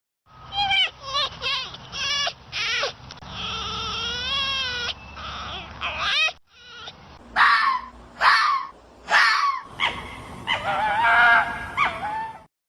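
A series of high, wavering animal cries in short bursts, with a longer warbling call about four seconds in.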